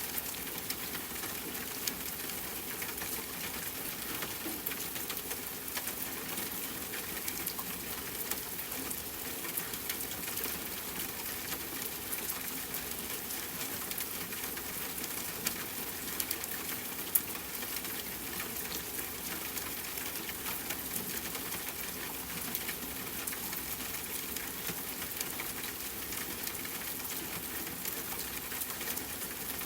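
Steady rain with a campfire crackling throughout, many small pops over the even patter. Two louder pops stand out about halfway through.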